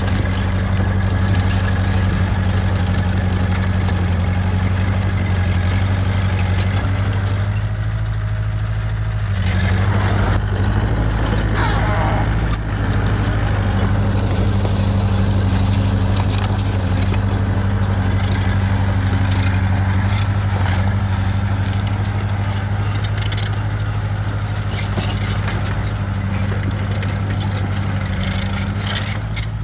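Bulldozer's diesel engine running steadily, dipping briefly in pitch about eight seconds in. Metallic clanking and rattling runs through it, with a short squeal about eleven seconds in.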